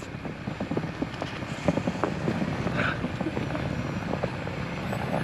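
Off-road vehicle's engine working hard as it climbs a snowy hill, with many short crunching clicks, growing louder over the first couple of seconds.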